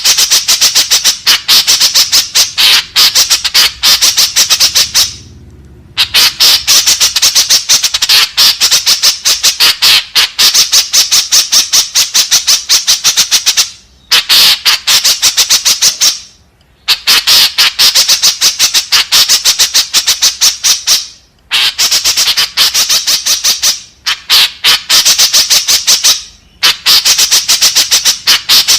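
White-breasted woodswallow (kekep babi) calling: long runs of rapid, harsh squawking notes, broken by several short pauses.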